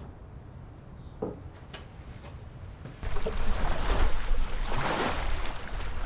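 Fairly quiet at first, with one small knock, then about three seconds in strong wind suddenly hits the microphone: a loud rushing with a deep buffeting rumble that keeps going.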